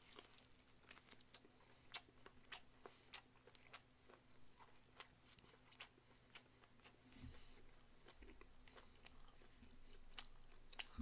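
Faint close-mic chewing of boiled pig stomach: irregular wet mouth clicks and smacks as the rubbery offal is bitten and chewed.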